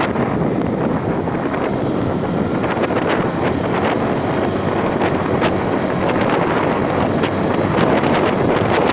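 Strong wind rushing over the microphone of a moving motorcycle, a loud, steady rush broken by frequent crackling buffets.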